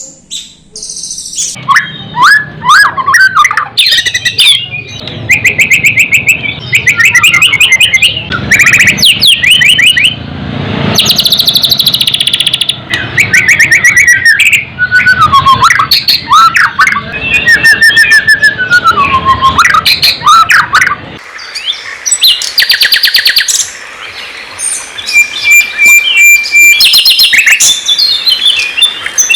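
Loud, varied songbird song: quick whistled phrases, rapid trills and sharp chirps following one another. The low background noise drops out about two-thirds of the way through, as if a different recording begins.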